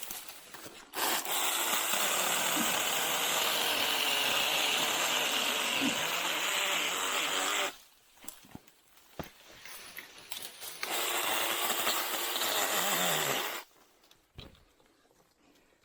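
Small battery-powered 6-inch mini chainsaw running in two bursts, about six seconds and then about three seconds, each starting and stopping abruptly as it cuts through small Chinese tallow trees.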